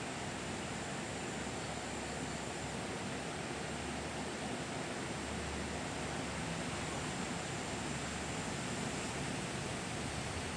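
Steady, even outdoor hiss with no distinct events: background noise at the waterside fishing spot.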